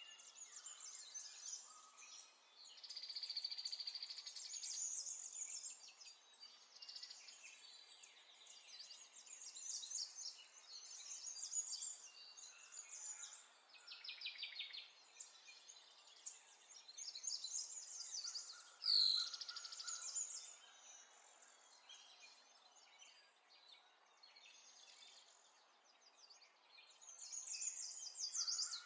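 Birds chirping and trilling in short high calls, with one louder sharp sweeping call about two-thirds of the way through.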